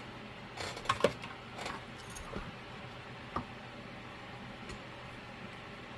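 Handling noises: a few light clicks and taps, clustered in the first three and a half seconds, then only a faint steady hum.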